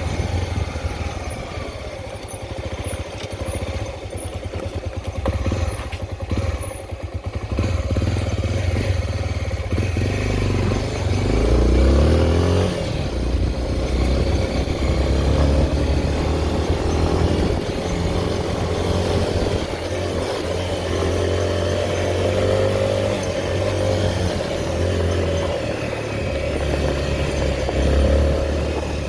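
Honda XR 250 Tornado's single-cylinder four-stroke engine running while the bike is ridden: low, pulsing revs for the first several seconds, then louder, with the revs rising and falling from about ten seconds in.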